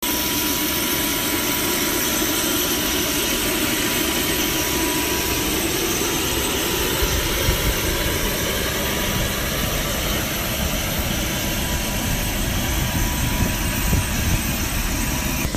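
Private jet's turbine engines running steadily: an even roar with a thin high whine over it, and a deeper rumble building about halfway through.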